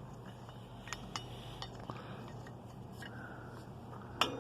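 Light metallic clicks and clinks from the crane's hand crank as its scrap-metal handle is turned, a few faint ones about a second in and a sharper clink near the end.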